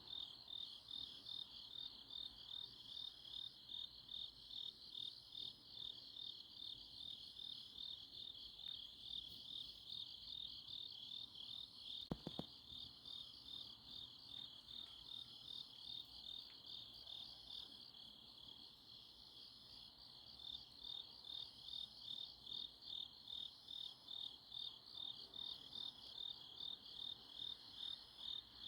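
Crickets chirping in a steady, even pulse of about two chirps a second, with a fainter, higher insect trill repeating more slowly above it. A single sharp knock sounds about twelve seconds in, and the chirping softens briefly a few seconds later.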